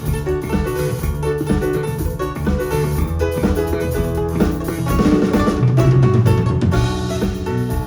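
A band playing on stage, with drum kit and guitar, loud and continuous.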